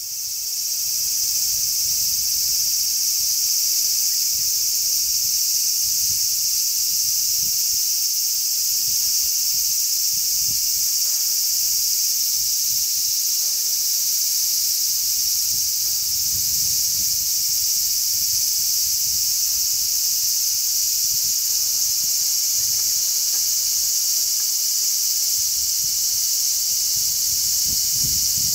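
A chorus of many large brown cicadas (Graptopsaltria nigrofuscata) singing in one steady, unbroken high-pitched buzz. Irregular low gusts of sea breeze rumble on the microphone underneath.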